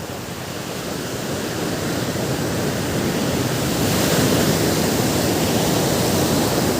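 Ocean surf: a wave washing in, the rush of water swelling over the first few seconds and staying at its loudest to the end.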